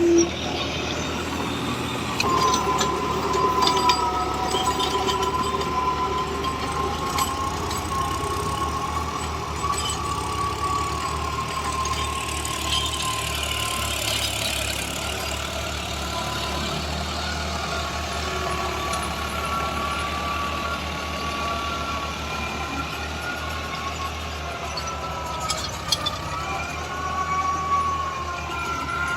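Tractor diesel engine running steadily, a low rumble with a thin high whine over it that wavers slightly in pitch.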